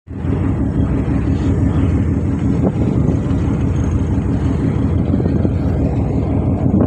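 Ferry's engine and exhaust system running steadily: a loud, continuous low rumble with a steady hum over it.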